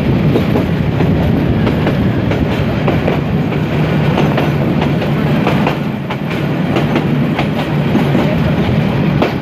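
Passenger train running at speed, heard from an open coach window: a steady rumble of wheels on the rails with irregular clicks and clatter from the rail joints.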